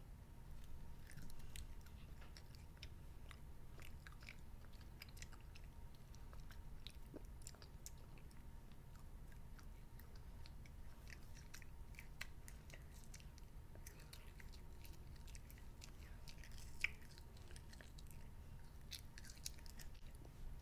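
A child chewing soft green candy grass: faint mouth noises made of small wet clicks and smacks, with one sharper click about three-quarters of the way through.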